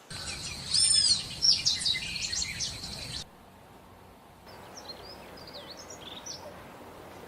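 Songbirds singing: a loud run of rapid, sweeping whistled notes and trills for about three seconds, which cuts off suddenly, followed after a short pause by fainter, scattered chirps.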